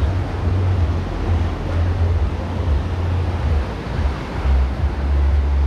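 Wind buffeting the microphone in uneven low gusts, over the steady wash of ocean surf.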